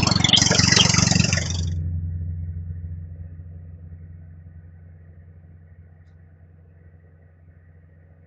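A loud, harsh mechanical noise cuts off suddenly about a second and a half in. It leaves a steady low engine-like hum that slowly fades away.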